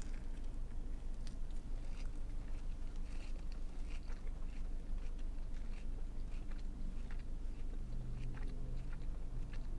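A person biting into and chewing a Burger King honey mustard wrap, with close, soft mouth sounds and scattered small clicks throughout.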